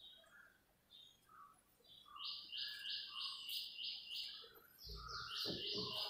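A bird calling: a few scattered high chirps, then from about two seconds in a fast, even run of repeated high chirps, about four a second. There are a few soft low knocks about five seconds in.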